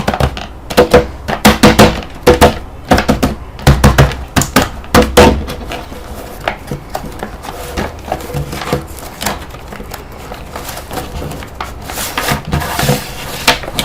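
Handling noise from a toy RC vehicle: a run of sharp clicks, knocks and clatter, loudest in the first five seconds, growing sparser after, with a rustling hiss near the end.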